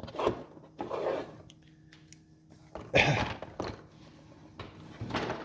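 A few brief knocks and rustles of objects being handled on a workbench, the loudest about three seconds in, over a faint steady hum.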